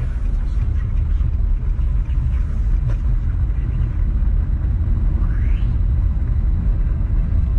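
Steady low rumble of a moving vehicle, with a brief rising whistle about five seconds in.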